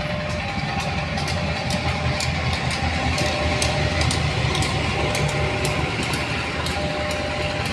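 Diesel locomotive engine running with a steady low throb, sharp clicks scattered through it. A faint two-note tone alternates in the background.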